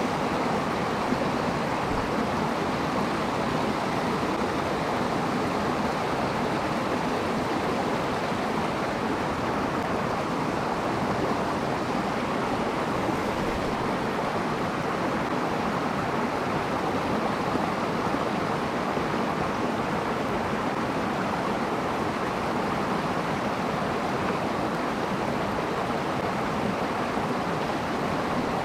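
Steady rushing of a flowing stream, an even, unbroken wash of water noise.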